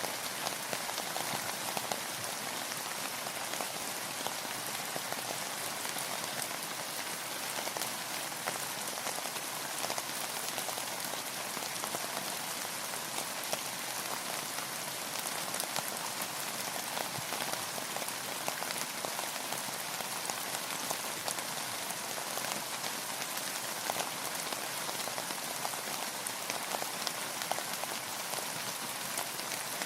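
Steady rainfall, a constant hiss of rain with many individual drops ticking on a surface.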